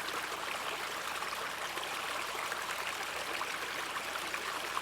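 Gentle river running over rocks, a steady trickling and babbling flow.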